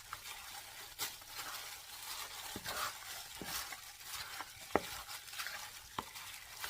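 Gloved hand mixing raw chicken wings in a bowl of oyster sauce and soy sauce: irregular wet squishing and rustling, with a few sharp clicks.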